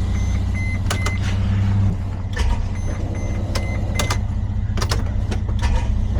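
Mercedes Sprinter 3.0 L V6 (OM642) being cranked by its starter without firing: a no-start caused by the crankshaft position sensor sending no signal. The cranking stops about two seconds in. A steady engine hum and scattered sharp clicks continue after that.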